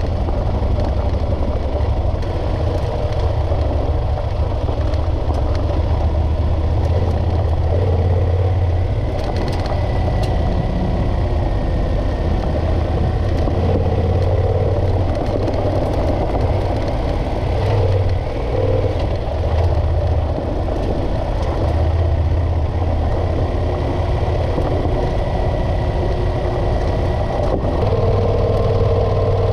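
Motorcycle engine running while under way, its note shifting up and down with the throttle.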